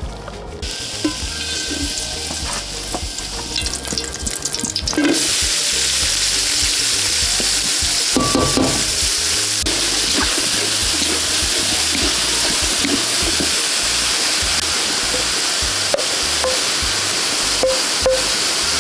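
Agujjim ingredients sizzling in a hot pan. The sizzle starts suddenly about five seconds in and carries on as a steady loud hiss, with a few light knocks.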